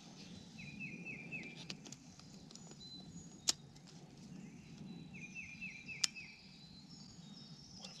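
Faint birdsong in woodland: one bird twice sings a short phrase of four or five quick down-slurred notes, with thin high calls from other birds. Two sharp clicks stand out, about two and a half seconds apart.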